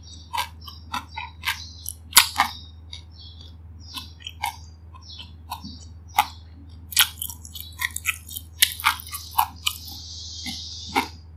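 Close-miked mouth chewing: irregular wet smacks and crunchy crackles as a mouthful of food is chewed with lips closed. A short soft hiss comes near the end, and a low steady hum runs underneath.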